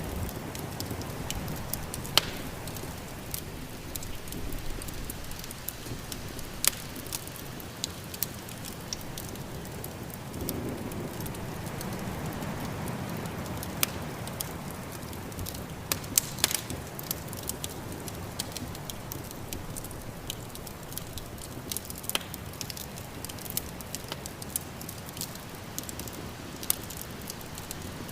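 Wood fire crackling in a fireplace, with irregular sharp pops, over a steady low rush of snowstorm wind that swells slightly about halfway through.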